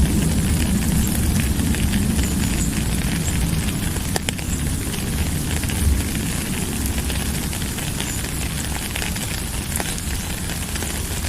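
Steady rain: an even hiss of falling drops with faint scattered ticks and a deep low rumble underneath.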